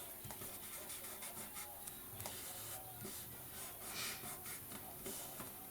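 Faint rustling and light scratching of paper being handled on a work table, with small scattered taps.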